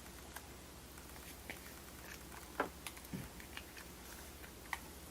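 Faint, scattered clicks and ticks of cured epoxy resin coasters being handled and worked out of silicone molds, with one stronger click about two and a half seconds in.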